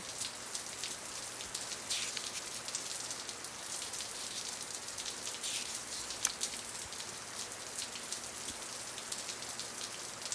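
Steady rain falling, an even patter with occasional sharper drops.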